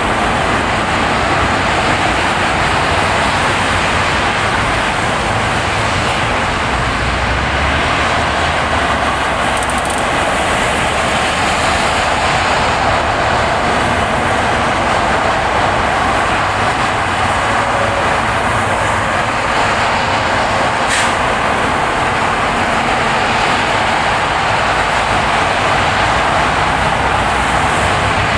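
Steady road noise of a car driving on a ploughed road after a snowfall: tyre hiss and engine as one even rush, with a single brief tick about twenty seconds in.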